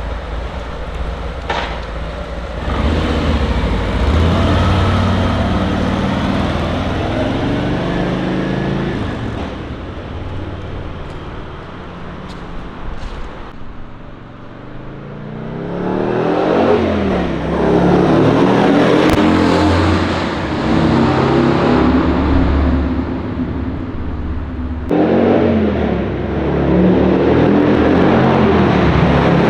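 Harley-Davidson Road Glide's V-twin engine accelerating and passing by, its pitch rising and falling in long sweeps over several passes. The sound changes abruptly at the start and again near the end, where clips are cut together.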